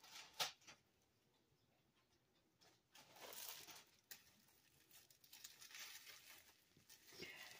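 Near silence, broken by faint rustling and a few small clicks, as of gift items and packaging being handled.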